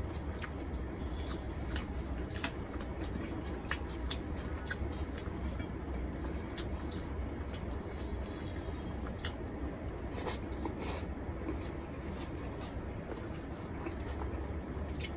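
Close-up eating sounds of a man eating rice and curry by hand: chewing with scattered wet mouth clicks and smacks. A steady low hum lies underneath.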